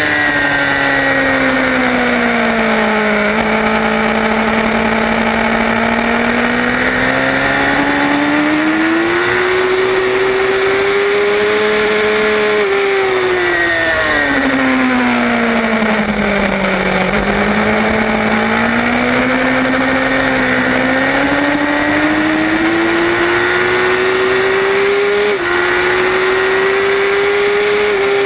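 Road-racing motorcycle engine at full race pace, heard from its onboard camera with wind rush over the microphone. The engine pitch falls through a corner, climbs hard on the throttle, dips again, then rises steadily down the straight, broken by one quick upshift about 25 seconds in.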